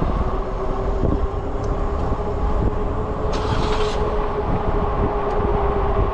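Riding noise from a Zota Zephyr e-bike in motion: wind on the microphone and a low tyre rumble, with a steady whine. A brief hiss comes a little past three seconds in.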